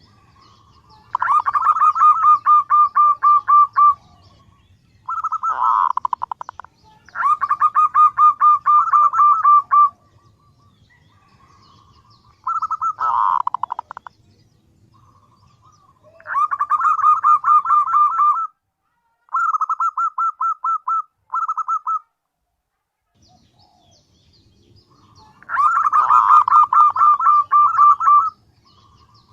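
Female zebra dove calling: rapid runs of short, clipped notes, each run lasting two to three seconds, about eight runs with short pauses between them.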